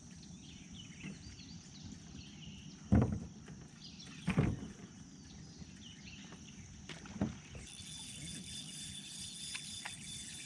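Paddle-board sounds on the water: a few sharp knocks and splashes, the two loudest about three and four seconds in, over a steady high whine.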